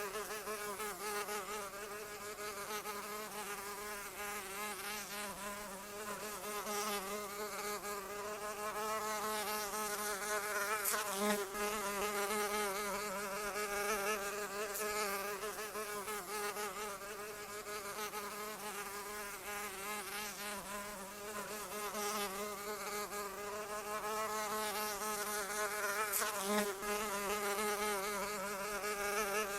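A flying insect buzzing continuously, its droning pitch wavering up and down without a break.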